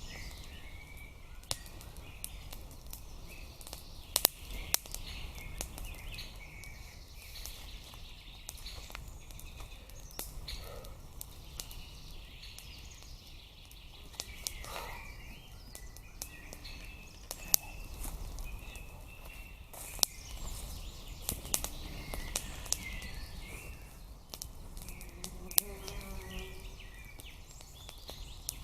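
Larch firewood giving irregular sharp cracks and snaps, a few of them much louder than the rest, with small birds chirping in the background.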